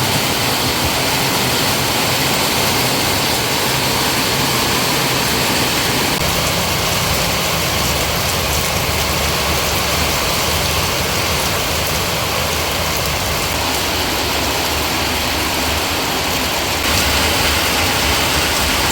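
Heavy rain pouring, a loud, steady rushing hiss; a low rumble joins it about six seconds in.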